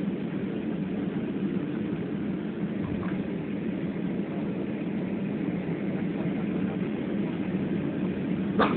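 Steady low drone inside the cabin of an Airbus A320 on the ground after landing, its engines and air system running. A single sharp click sounds near the end.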